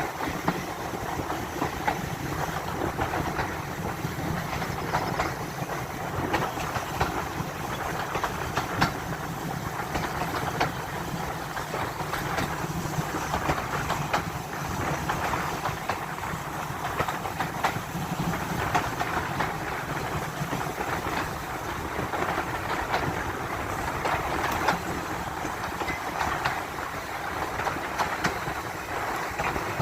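Heritage railway passenger train running along the line: a steady rumble with frequent quick clicks of the wheels over the rail joints.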